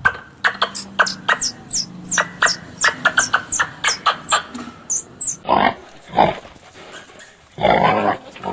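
A fast run of short, high, falling chirps, about four a second, for about five seconds. Then two louder, rough calls typical of a pig squealing and grunting.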